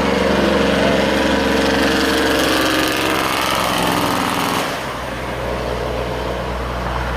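Heavy truck's diesel engine running close by, loud and steady for about five seconds, then falling away at about five seconds in to a lower steady traffic rumble.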